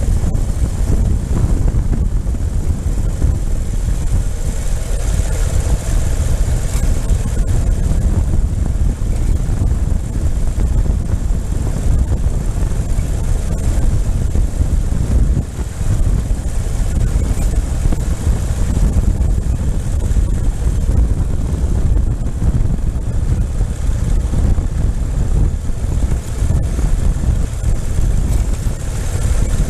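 Ural sidecar motorcycle's air-cooled flat-twin engine running steadily under way, mixed with low wind rumble on the microphone. A brief dip about fifteen seconds in.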